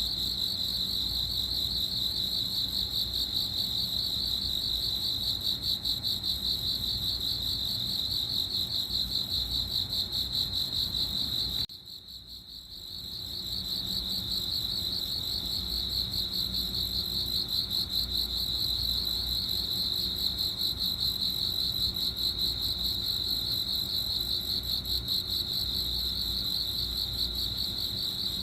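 Cricket chirping in a continuous rapid trill, a high steady tone with a fine pulsing. About twelve seconds in it drops away for about a second, then swells back and runs on.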